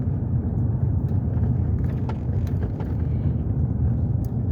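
A vehicle driving along a road, heard from inside the cab: a steady low hum of engine and tyres with a few faint clicks.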